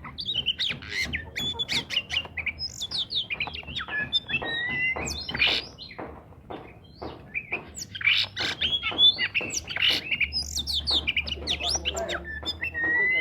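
Oriental magpie-robin singing nonstop, a rapid jumble of whistled glides, chirps and harsh squawky notes, over a faint low hum.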